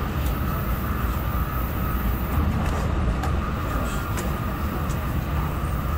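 Steady running noise inside a Tokaido Shinkansen carriage in motion: a low rumble with a faint steady whine above it.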